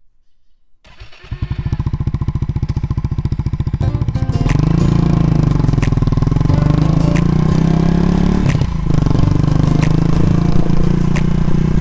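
A Honda Monkey 125's single-cylinder engine comes in about a second in and runs with a fast, even beat. From about four seconds in, background music with a heavy bass and a regular ticking beat plays over it.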